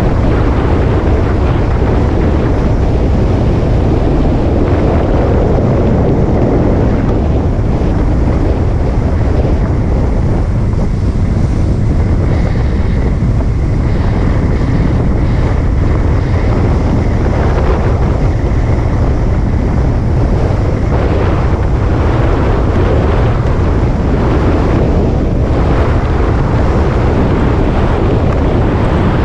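Motorcycle engine running under way, mixed with heavy wind rushing over the microphone; loud and steady, with no sudden changes.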